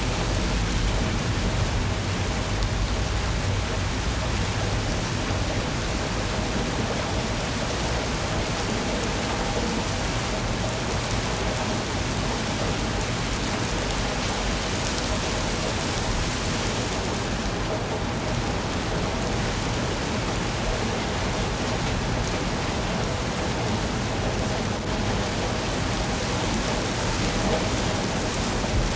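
Steady rain falling, an even hiss with no pauses, with a low rumble underneath that is strongest in the first few seconds.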